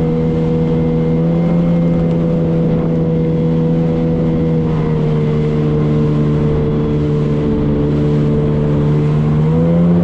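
Motorboat engine running at speed with a steady drone. Its pitch dips slightly about halfway through and rises briefly near the end.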